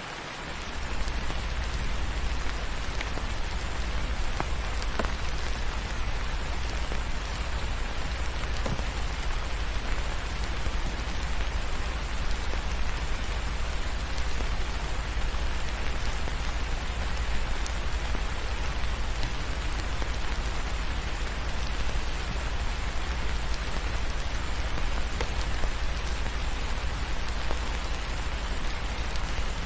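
Steady rain falling, with a deep low rumble underneath that comes in about a second in, and a few faint ticks.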